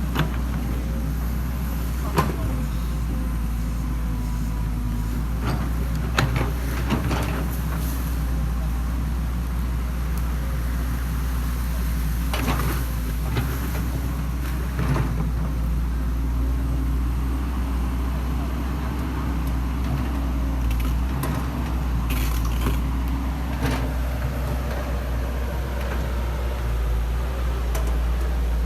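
Excavator engine running steadily with a low hum, with occasional knocks and clanks from the machine at work.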